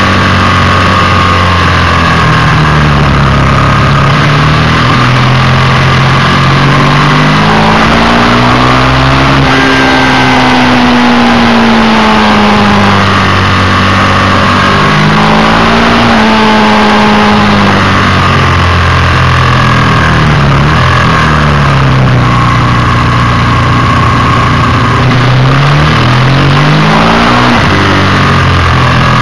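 Ducati 620 air-cooled L-twin engine heard on board at speed. Its revs rise and fall again and again as it accelerates out of bends and slows into them, over steady wind rush.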